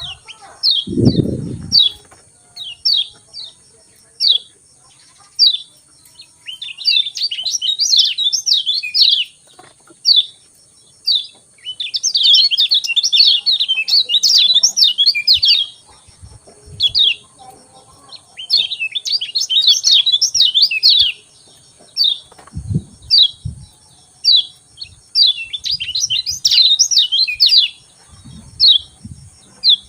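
Lemon-bellied white-eye (kecial kuning) giving repeated short, downward-slurred 'ciak' call notes, broken four times by bursts of fast, high twittering song. A few dull low thumps come in, one about a second in and two near the end.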